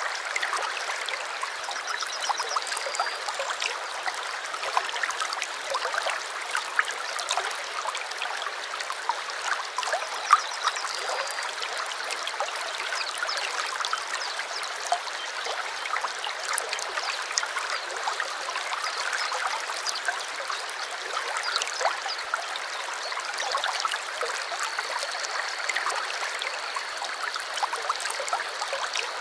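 Small creek flowing steadily, a continuous babbling of water with many small splashes. Faint high bird trills come through a few times in the first dozen seconds, and a thin high call is held over the last few seconds.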